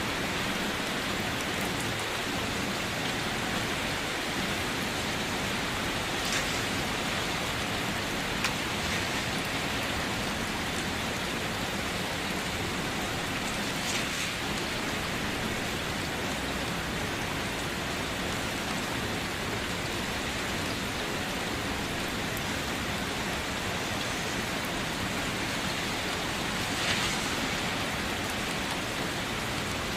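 Steady rain falling, with a few louder individual drops now and then.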